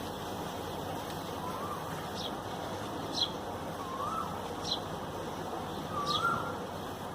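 Birds calling: a short, high, falling chirp repeated about every second and a half, and a lower call that rises and falls, heard three times, over a steady background hiss.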